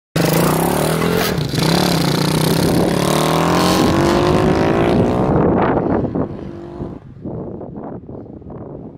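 Minibike's Chinese-made single-cylinder engine, with a Bike Parts Center aftermarket muffler, accelerating under load, its pitch rising, with a brief dip about a second and a half in. About five and a half seconds in the throttle closes and the engine drops to a quieter, uneven running.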